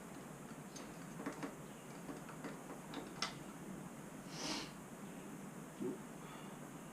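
Scattered light clicks and taps from hand work, a short hiss about four and a half seconds in, and a brief dull knock near the end.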